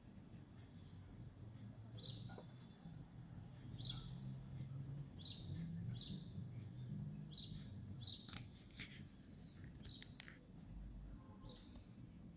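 A small bird chirping faintly, a short high falling call repeated about every second and a half, over a low steady hum. A few sharp clicks come about two thirds of the way through.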